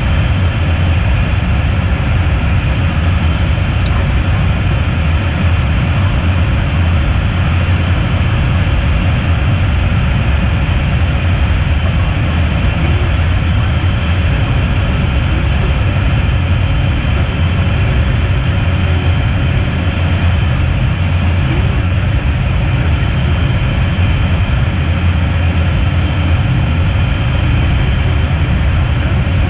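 Steady noise inside the cockpit of an Embraer Phenom twin-jet in flight: a low rumble under an even hiss of airflow and engine noise.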